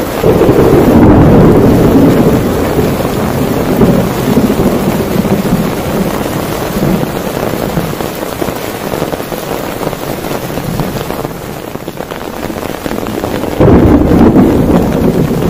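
Heavy thunderstorm: steady downpour with a loud rumble of thunder at the start that rolls away over a few seconds, and a second thunder rumble near the end.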